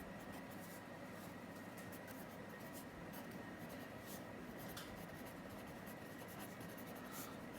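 Faint scratching of handwriting: irregular short writing strokes over a low steady background hiss.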